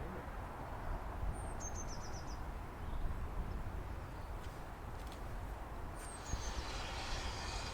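A small bird singing twice, each time a short, high phrase of quick repeated notes, over a steady low outdoor rumble.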